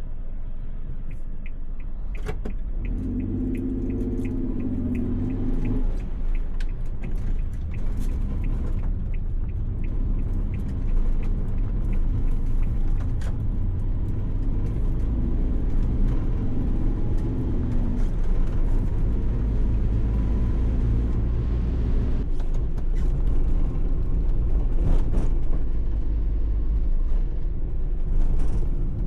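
Suzuki Every kei van driving, a steady low rumble of engine and road noise. An even, rapid ticking runs through the first several seconds, then stops.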